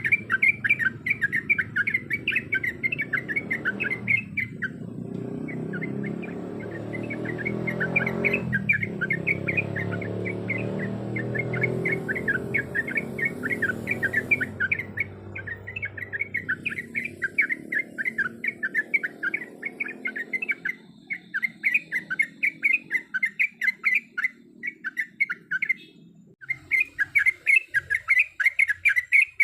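Trucuk (yellow-vented bulbul) singing a fast run of repeated chattering notes, several a second, with a few short breaks. A low background rumble lies under the song through the middle.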